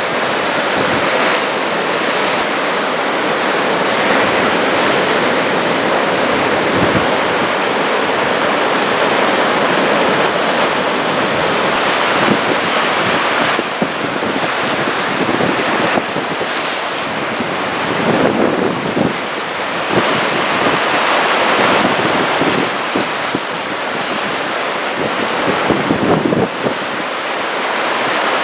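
Typhoon-driven surf breaking and washing in, with strong wind buffeting the microphone in gusts.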